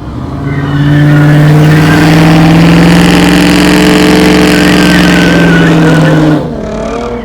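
Truck engine revved up and held at high rpm with a steady note and a strong hiss for about five seconds, then dropping off sharply near the end.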